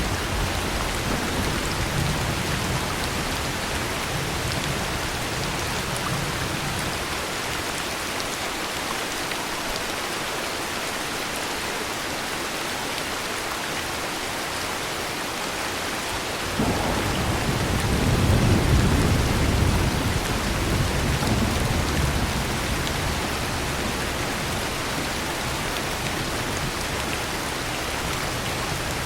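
Heavy, steady rain with thunder. A low rumble of thunder dies away over the first several seconds; a little past halfway a new thunder roll starts suddenly, swells for a couple of seconds, then rolls off under the rain.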